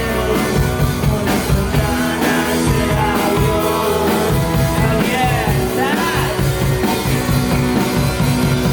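A rock band playing live: drums, bass and electric guitars with a steady beat, and a sung or lead melody line.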